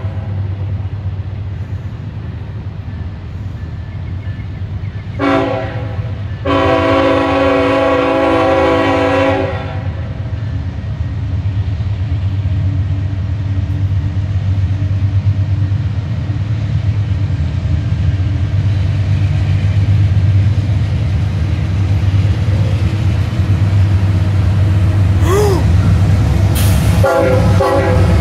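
CSX diesel freight locomotives passing with a steady low engine rumble that grows louder as the lead units come by. The air horn sounds a short blast about five seconds in, then a long blast of about three seconds.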